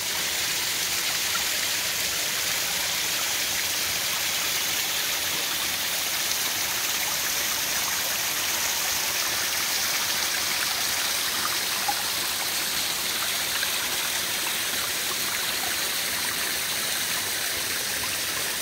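Groundwater trickling and splashing steadily as it seeps out from under the forest floor over sandstone rocks onto the beach, many small runnels at once.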